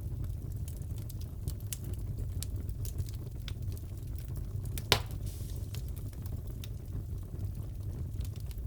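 Crackling fireplace: a steady low rumble of burning logs with scattered small crackles and one sharper pop about five seconds in.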